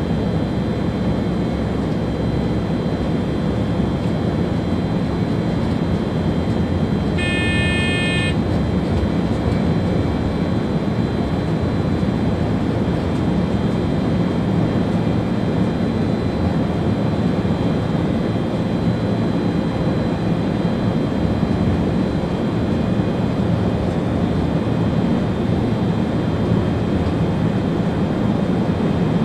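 Steady rumble and rolling noise inside the cab of an ÖBB Railjet train running at speed. A short, high-pitched beep of about a second sounds roughly seven seconds in.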